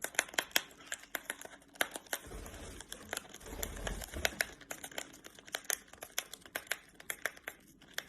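A parrot tearing open a tea packet with its beak: rapid, irregular crinkling and tearing crackles of paper wrapping, with a low handling rumble about two seconds in.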